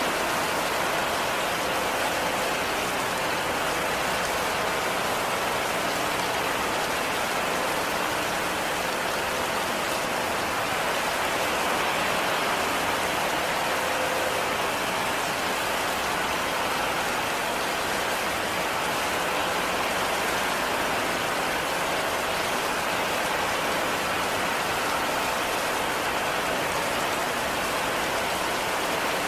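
Heavy rain falling steadily, an even unbroken hiss of many drops.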